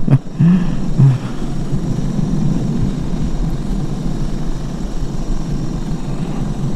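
Suzuki DR 650 motorcycle's single-cylinder engine running steadily.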